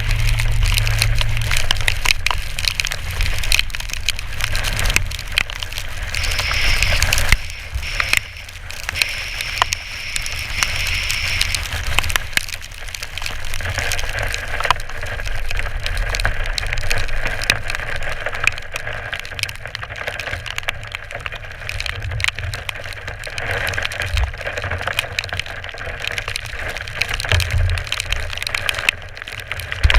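Strong wind buffeting a GoPro's microphone: a continuous low rumble under a steady hiss, with many scattered sharp clicks and crackles.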